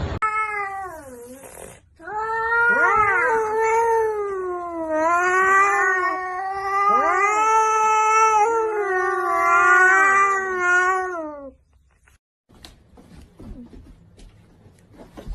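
Cat caterwauling: long, drawn-out wavering yowls for about eleven seconds with a short break near the start, a second rising-and-falling call crossing the main one now and then, then stopping abruptly.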